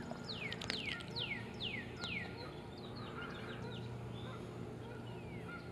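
A songbird singing a quick series of falling whistled notes, about three a second for a couple of seconds, then trailing off into scattered fainter chirps.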